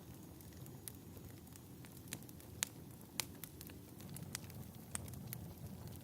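Wood fire crackling: irregular sharp pops over a low, steady rumble. The two loudest pops come a little over half a second apart, near the middle.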